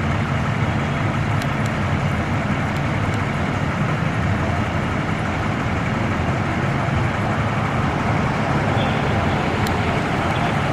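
Fire truck's engine running steadily, a low even drone under a wash of noise.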